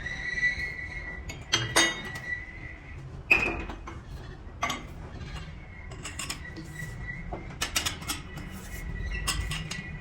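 Metal tools and parts clinking and knocking against each other, about a dozen sharp, irregular strikes, the loudest a little over three seconds in, over a faint steady high whine.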